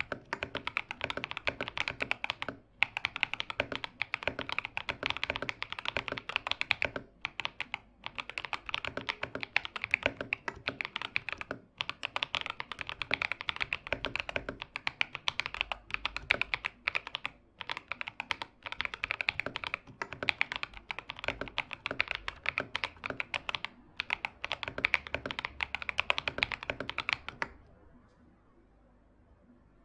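Fast typing on a KM84+ mechanical keyboard: a dense stream of key clicks broken by brief pauses, stopping shortly before the end.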